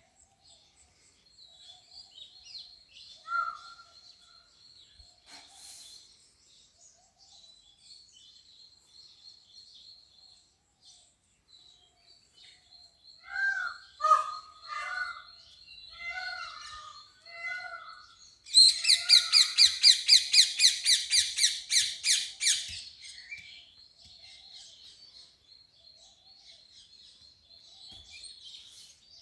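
Birds chirping and calling outdoors: thin high chirps throughout, a cluster of lower calls in the middle, then a loud run of rapid repeated calls lasting about four seconds, about two-thirds of the way in.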